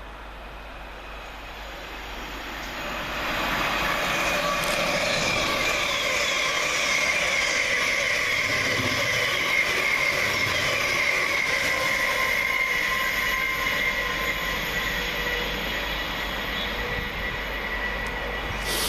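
Thameslink Class 700 electric multiple unit running through the station. The rail and wheel noise builds over the first few seconds and then holds loud, with high steady whining tones that sink slightly in pitch.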